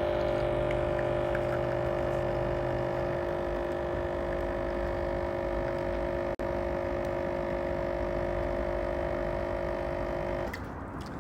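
Espresso-style coffee machine's pump running with a steady hum while brewing a cup. It stops about ten and a half seconds in. A lower part of the hum drops out about three seconds in.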